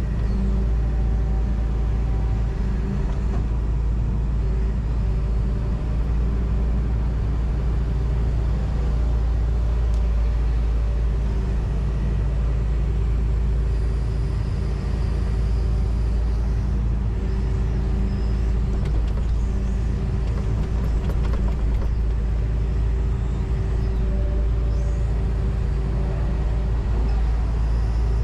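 John Deere 245G excavator's diesel engine running steadily, heard from inside the cab as an even, low drone with little change in pitch.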